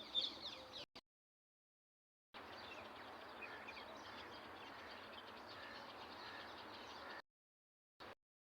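Small birds chirping in quick, high-pitched calls over a steady background hiss. The sound comes in separate pieces that cut off abruptly into dead silence: a brief cluster of sharp chirps at the start, then a longer stretch of fainter chirping from about two seconds in.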